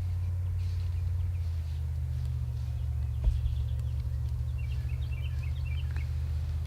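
Outdoor ambience: a steady low rumble, a single knock about three seconds in, and short high songbird chirps in the second half.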